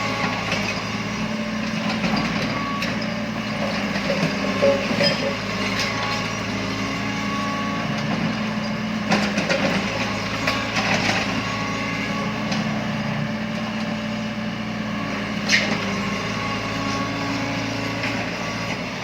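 Heavy excavator diesel engine running steadily, with a few sharp knocks from the machine's work, about nine seconds in and again near sixteen seconds.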